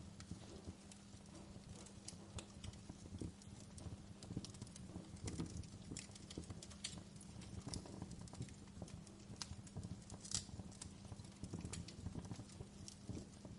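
Wood fire crackling in a fireplace: irregular small pops and snaps, a few sharper ones, over a low steady rumble.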